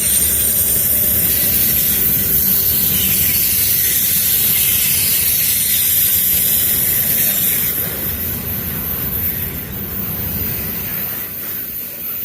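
Freight train cars rolling past on the rails, a steady loud roar with a hiss of wheels on rail, fading from about eight seconds in as the train goes by.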